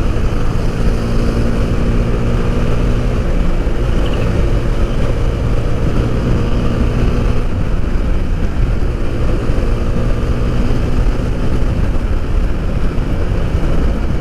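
Motorcycle engine running steadily at road speed, its pitch shifting slightly, under heavy wind rumble on the microphone.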